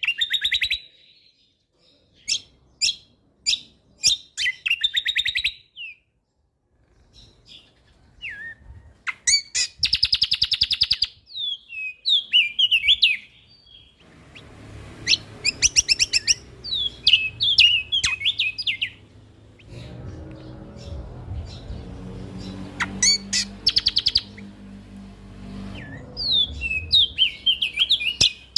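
Songbird song of rapid chattering trills, sharp repeated notes and short gliding whistles in bursts with short pauses. This is a masteran recording for training cage birds to sing. From about halfway through, a low rumbling background noise sits under the song.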